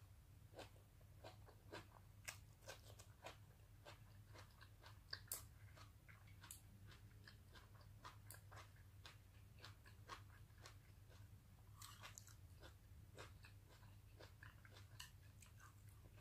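Faint chewing of a mouthful of sautéed cabbage and grilled meat: soft, irregular mouth clicks and small crunches, one a little louder about five seconds in, over a low steady hum.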